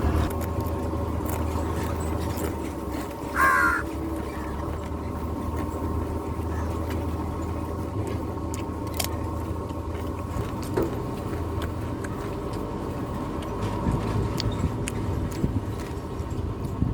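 A crow caws once, a short loud call about three and a half seconds in, over a steady low hum.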